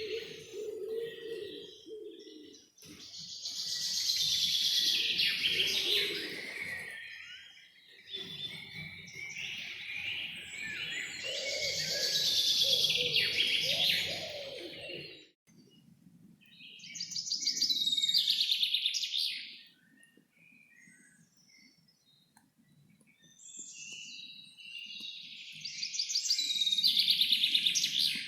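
Songbirds chirping and singing in loud bursts of a few seconds each, with a quiet lull of a few seconds past the middle.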